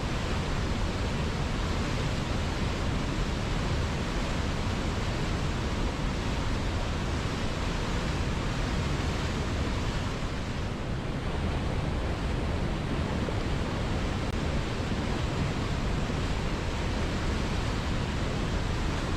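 River water flowing steadily, a continuous rushing wash with no breaks.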